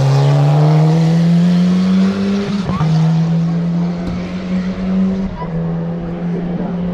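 Race car engine under hard acceleration, its pitch rising steadily and then dropping sharply at a gear shift about a third of the way in, with another shift near the three-quarter mark.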